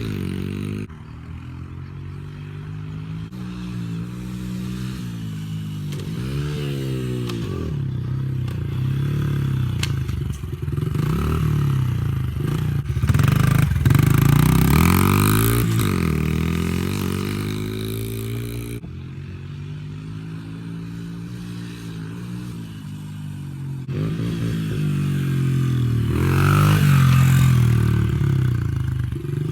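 Dirt bike engine revving up and falling back again and again as it rides, its pitch climbing and dropping with each throttle change. It gets louder as the bike comes close, about halfway through and again near the end.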